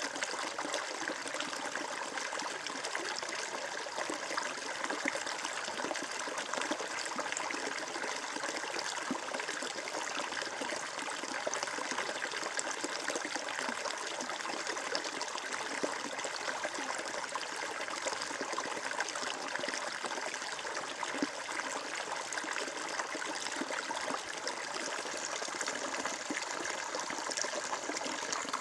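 Flowing water, an even, continuous trickling rush with no pauses or changes.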